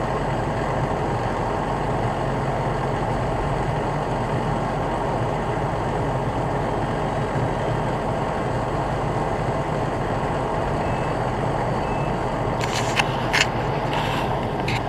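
Heavy truck engine idling steadily, with a few sharp knocks near the end.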